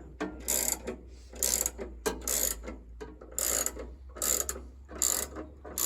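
A hand ratchet being worked in repeated strokes, a short clicking rasp roughly once a second, while a log is set level on a sawmill.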